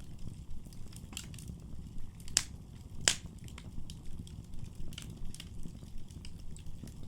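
Wood fire burning in a fireplace: a steady low rumble of flames with scattered crackles and pops, two sharper pops a little under a second apart near the middle.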